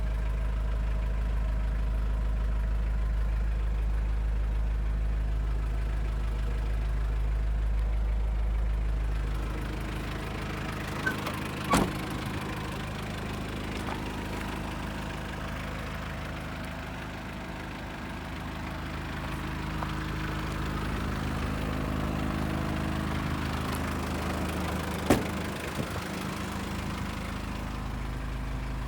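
Mitsubishi Canter truck's 4M40 four-cylinder diesel engine idling steadily, with two sharp clicks, one about midway and one near the end.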